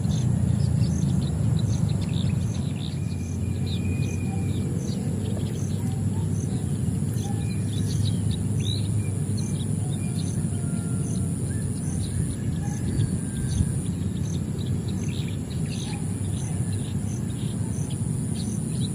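Many small birds chirping in short, scattered notes over a steady, high insect trill that pulses faintly and evenly. A steady low rumble lies underneath throughout.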